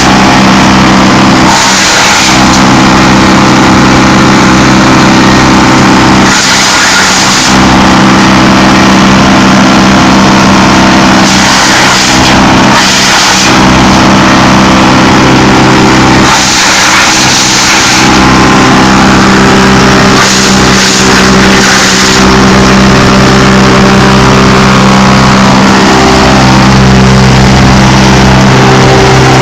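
Diesel engine of a TYQP1150 wood chipper running steadily at working speed. About every four to five seconds, a spell of harsh noise lasting a second or two rises over it as wood is chipped.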